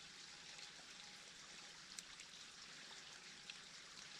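Near silence: the faint, steady rush of a creek, with a couple of small clicks about two seconds and three and a half seconds in.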